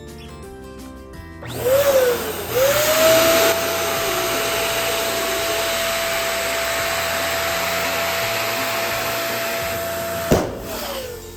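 Electric balloon inflator running: a steady motor whine over rushing air, starting about a second and a half in and wavering in pitch before it settles. Near the end a sharp click, then the motor winds down in pitch and stops.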